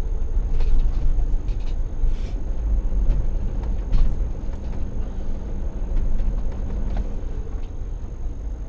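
Motorhome running at low speed, heard from inside the cab: a steady low engine and road rumble with a few light clicks and rattles.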